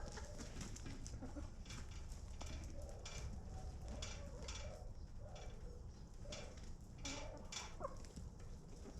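Domestic chickens clucking softly in short, scattered calls, with many short scratchy noises between them over a low steady rumble.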